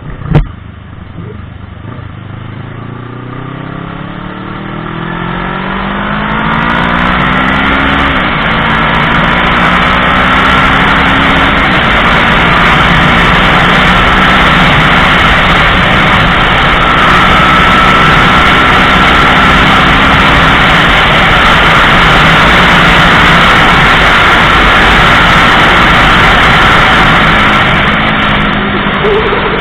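Motorcycle engine accelerating hard through the gears: its pitch climbs, then drops back at each upshift, three times. Heavy wind rush builds up and stays loud over it. A single sharp knock comes just after the start.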